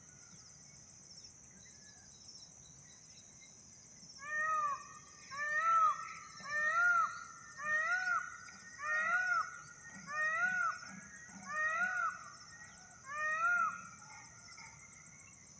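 Peafowl calling: a series of about eight short, arched, nasal calls, roughly one a second, starting about four seconds in. A steady high insect drone, cicadas or crickets, runs underneath.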